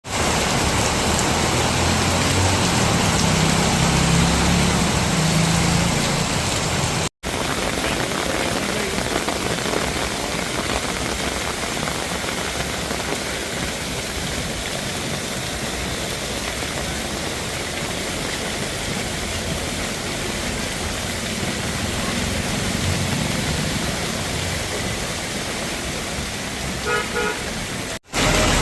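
Heavy monsoon downpour, a steady dense hiss of rain, with a vehicle's rumble passing in the first few seconds and a short horn toot near the end.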